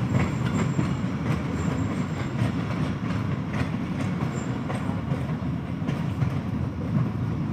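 Passenger train coaches rolling slowly into a station: a steady rumble of wheels on the rails with scattered clicks from the rail joints, and a faint high squeal that comes and goes.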